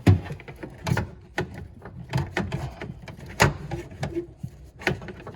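Irregular sharp clicks and knocks, about half a dozen, from car parts being handled and fitted back into place during reassembly. The loudest come right at the start and about three and a half seconds in.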